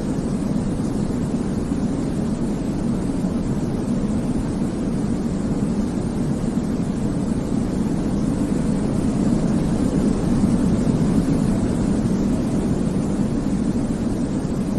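Continuous baby-sleep white noise, a deep, even rush weighted toward the low end, with no tones or rhythm. It swells slightly about ten seconds in.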